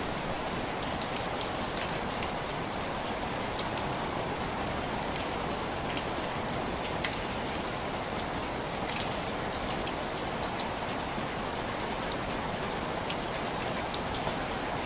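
Steady rain falling on window glass: an even hiss with many separate drop ticks scattered through it.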